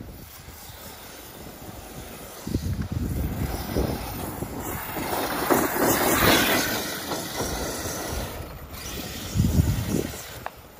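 Arrma Kraton 8S electric RC monster truck driving over dirt and gravel, with wind buffeting the microphone. It gets much louder about two and a half seconds in, and there is a heavy low thump about nine and a half seconds in.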